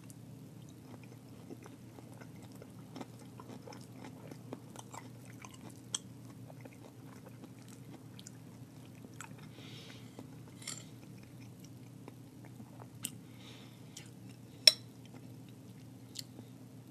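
Close-miked chewing of a vegetable stir fry, with many small mouth clicks and a metal spoon tapping in a bowl; one sharp clink about three-quarters of the way through is the loudest sound. A steady low hum runs underneath.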